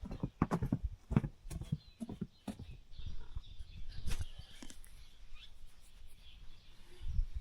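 A run of sharp knocks and dull thumps, with chickens faintly vocalising in the background.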